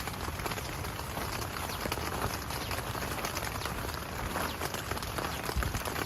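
Heavy rain falling, with a steady hiss of dense drops striking a surface.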